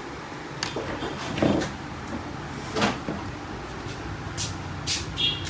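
Scattered clicks and knocks from the plastic parts of a laser printer being handled and taken apart, the loudest about a second and a half in.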